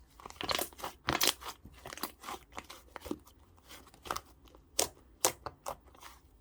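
Purple clay-mixed slime being pressed and squished by hand, giving irregular sharp crackles and pops.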